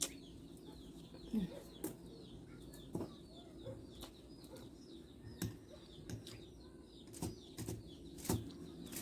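Chewing and mouth noises of someone eating a mouthful of baked macaroni-and-potato lasagna pie: irregular wet clicks and lip smacks, a few every second or two. Faint high bird chirps run behind.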